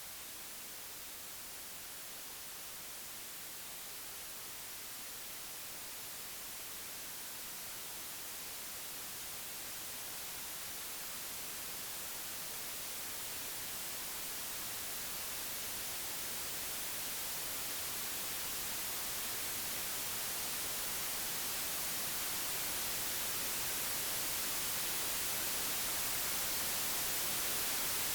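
Computer-generated pure white noise: an even hiss that grows gradually louder throughout.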